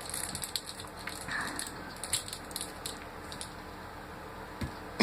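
Kittens playing with a toy: scattered light clicks and scuffs, with a soft thump near the end.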